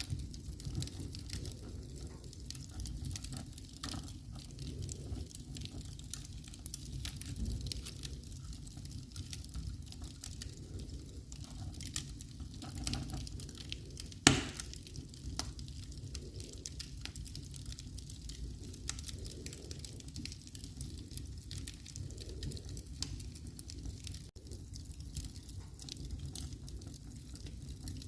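Wood fire crackling in a fireplace: scattered small snaps over a low rumble, with one sharp, loud pop about halfway through.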